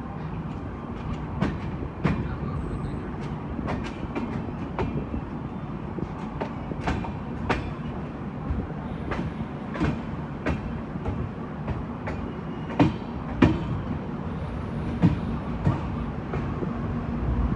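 Garib Rath Express passenger train running along the track: a steady rumble of the coaches with irregular sharp clacks of the wheels over rail joints and points, a few louder than the rest.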